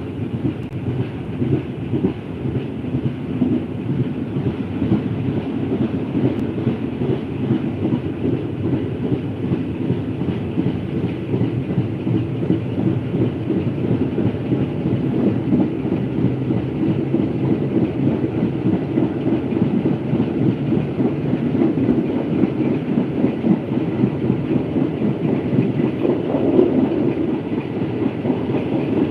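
Train riding steadily along the track, heard from on board: a continuous low rumble with the rapid clatter of wheels on rail.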